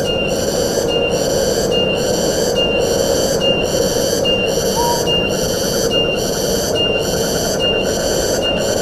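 Wind rushing through forest trees as a steady rush. Over it, a high, shrill call repeats in an even rhythm, about three times every two seconds. A single short chirp sounds about halfway through.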